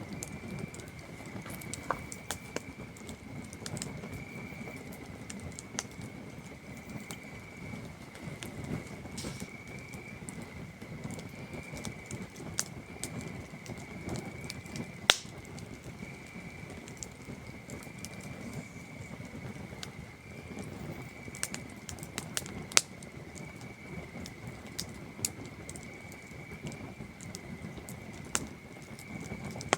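Campfire crackling, with scattered sharp pops over a low rustle of burning wood; a louder pop about halfway through and another about three-quarters through. A chorus of crickets trills steadily behind it.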